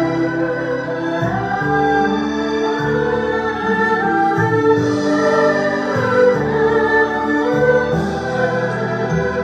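Erhu and zhonghu ensemble playing a slow melody: sustained bowed notes with some sliding pitches over lower held notes.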